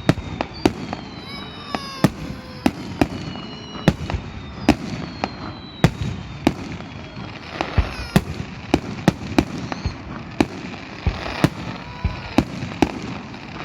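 Fireworks display: sharp bangs of shells and crackers going off at an irregular pace, sometimes several a second, mixed with whistling tones that glide in pitch.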